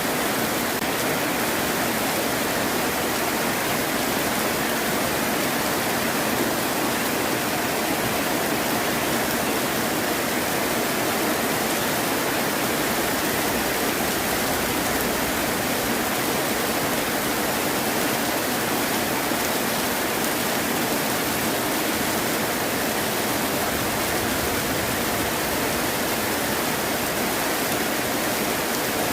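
Heavy rain falling, a steady, even hiss with no thunder.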